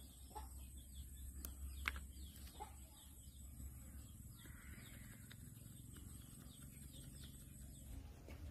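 Faint chirping of small birds, many short high calls, with a few soft sharp clicks and a low steady hum beneath.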